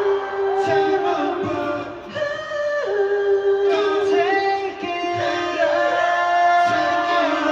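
Live pop concert music: held and gliding sung notes over a sparse backing with little bass or beat.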